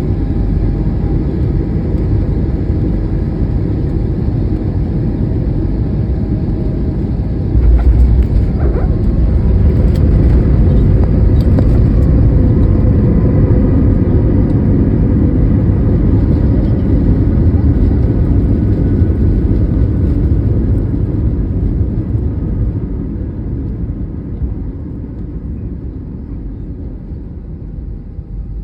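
Steady, loud low rumble of a vehicle's engine and motion. It gets louder about eight seconds in and fades over the last several seconds.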